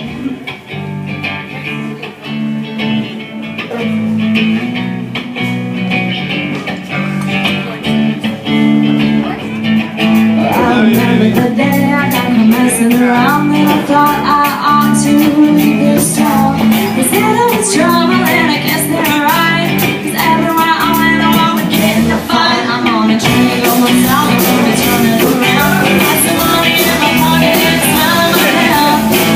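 A live band playing a blues-rock song: guitar and bass open it, a singing voice comes in about ten seconds in, and the drums and cymbals fill out near the end.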